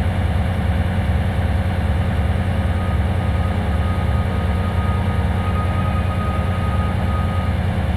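MÁV M41 diesel-hydraulic locomotive's V12 diesel engine idling with a steady low throb. A faint thin tone joins about three seconds in and fades near the end.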